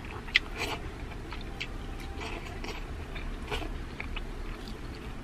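A person chewing a mouthful of food, with wet lip smacks and small clicks scattered through. A sharp click about half a second in is the loudest.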